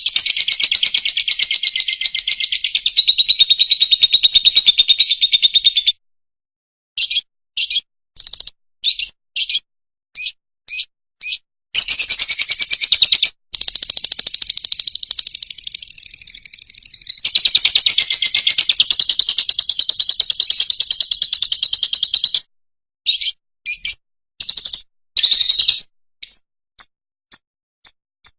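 Fischer's lovebird singing: long, rapid, high-pitched chattering trills, broken twice by runs of short separate chirps.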